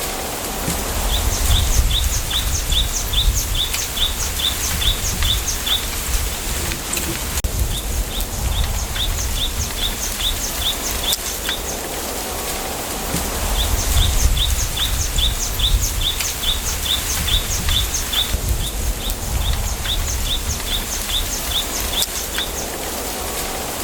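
A small bird repeating quick high chirps, about five a second, in bouts of several seconds with short pauses between. Under it is a steady hiss of wind through a bamboo grove, with gusts of low rumble.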